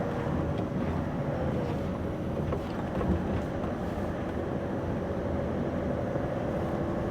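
Scania V8 diesel lorry engine running steadily while under way, with road noise.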